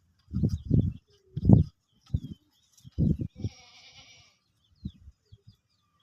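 Farmyard animals: one drawn-out animal call about a second long, a little past midway, over small birds' quick falling chirps and several strong low thumps in the first half.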